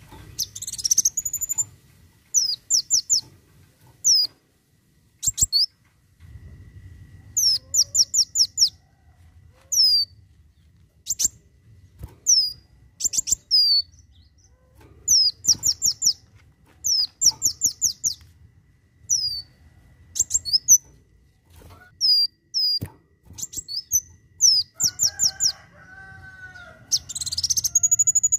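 Kolibri wulung (a sunbird) singing its 'tembakan': very high, sharp downward-sweeping notes fired in quick runs of three to five, repeated every second or so, with a longer rising sweep near the start and again near the end.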